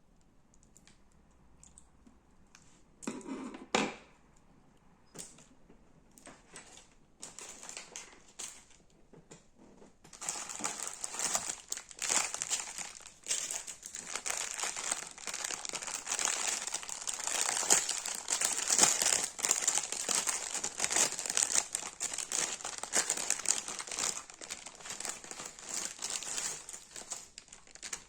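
Crunchy slime being worked by hand, crackling. There are scattered crackles and a louder squish or thump about three to four seconds in, then dense, continuous crackling from about ten seconds in.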